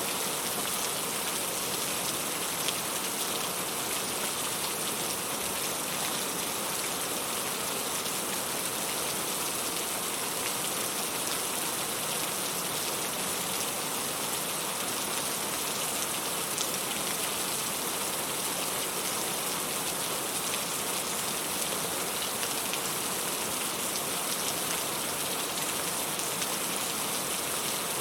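Steady rain: an even hiss with faint scattered drop taps.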